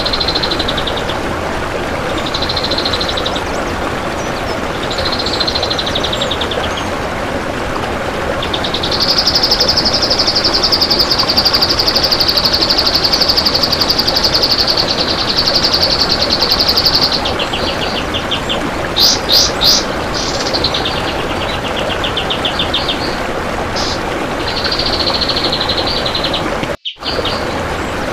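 Kapas tembak songbird singing dense, rapid trilled 'besetan' phrases, one after another. The longest trill runs about eight seconds, over steady background hiss, and the sound drops out for a moment near the end.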